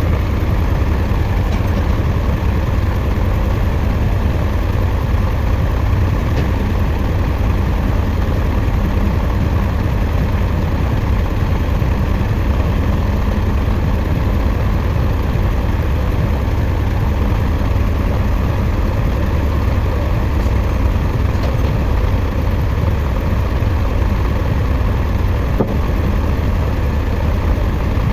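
A heavy engine running steadily, with a constant low rumble.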